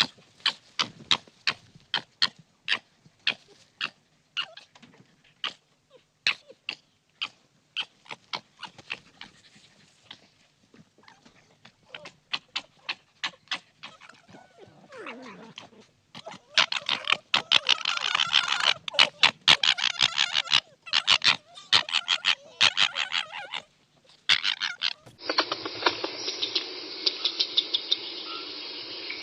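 An animal sniffing and snuffling in a long run of short, quick sniffs, thicker and louder about halfway through. A steady hiss comes in near the end.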